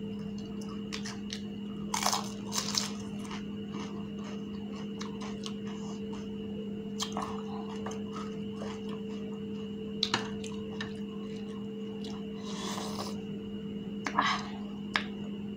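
Crisp fuchka (pani puri) shells being bitten and chewed, with several sharp crunches spaced through the chewing. A steady hum runs underneath.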